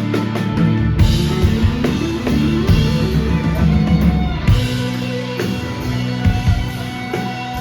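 Live rock band playing an instrumental passage on drum kit, bass, guitar and keyboards, with steady drum hits under held chords. A run of rising notes comes about a second in.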